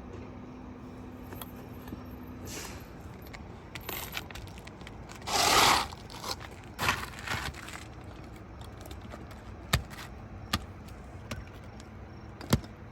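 Scuffing, scraping and crunching on asphalt roof shingles, with a few sharp clicks in the second half. The loudest scrape comes about halfway through.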